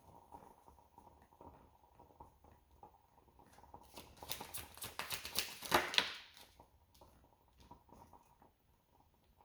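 Tarot cards being shuffled, with a quick run of soft card flicks and slaps between about four and six seconds in.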